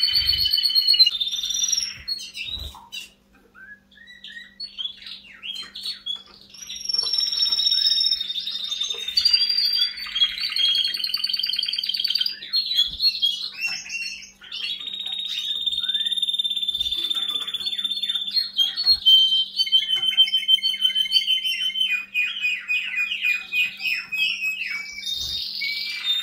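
Domestic canary singing in long trills and rolls, with a long held note midway and a fast run of repeated notes near the end; a short pause a few seconds in.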